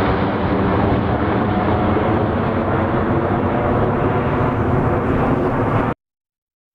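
Boeing 777-281 airliner's jet engines at takeoff power, a steady loud rumble whose high end slowly dulls as the plane climbs away. The sound cuts off abruptly about six seconds in.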